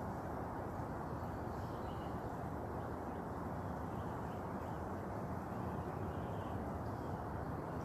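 Steady outdoor background noise, an even low haze with no clear single source, with faint high chirps here and there.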